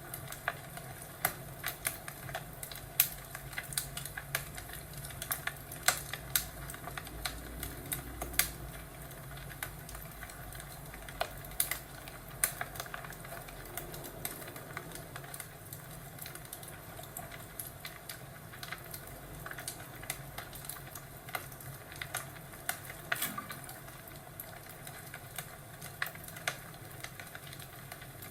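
Wood fire crackling in a fireplace: irregular sharp pops and snaps, a few a second, over a low steady rumble.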